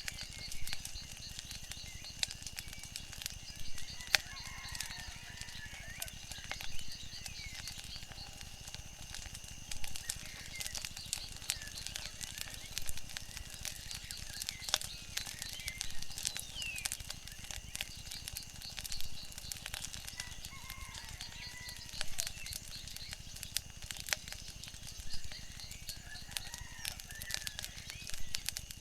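Wood fire crackling, with frequent sharp pops, over a steady low wash. Scattered short bird calls and a continuous high-pitched trill sound behind it.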